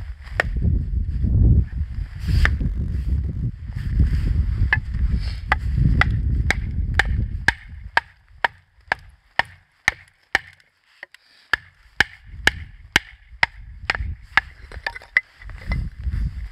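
Axe chopping firewood: a quick run of sharp strikes into not-fully-dried wood, about two a second, each with a short ring. A low rumble runs under the first half.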